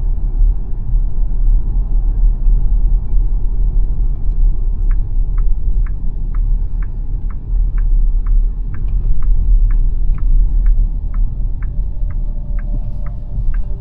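Low road and tyre rumble inside the cabin of an electric SUV on the move, with no engine note. About five seconds in, the turn-signal indicator starts ticking steadily, about twice a second.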